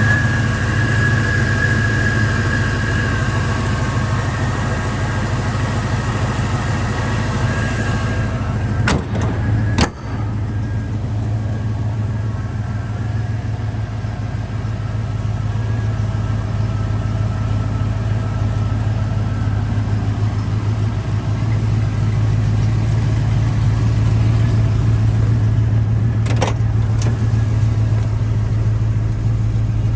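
Chevrolet Ramjet 350 fuel-injected small-block V8 idling steadily, with a faint high whine over the first several seconds. Sharp clicks come about nine and ten seconds in, and again about twenty-six seconds in.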